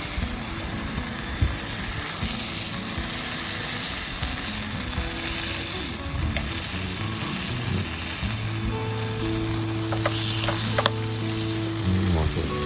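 Bacon frying over a campfire, a steady sizzle and spatter, with a few light clicks about ten seconds in.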